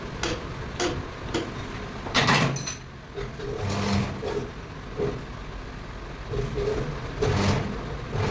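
Metal lathe running with a steady hum under irregular metallic scrapes and knocks, and a louder ringing metal clatter about two seconds in.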